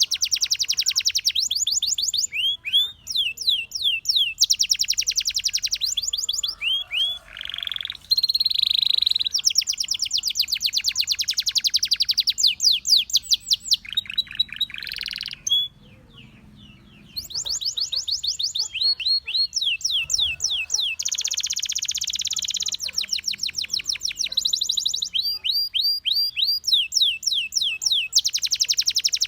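Domestic canary singing in long, fast trills of rapidly repeated notes, switching from one note type to another from roll to roll, with a short pause about halfway through.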